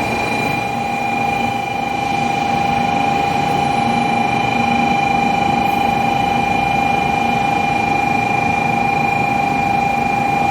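A Shinkansen 700 series Rail Star train standing at the platform: a steady electrical whine over a constant rumble of its running equipment.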